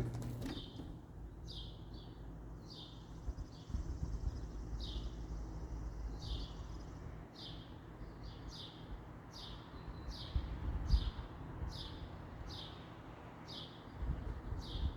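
A bird chirping over and over: short, high chirps that drop in pitch, about one and a half a second, very evenly spaced. Beneath them is a low rumble, with a brief louder bump about eleven seconds in.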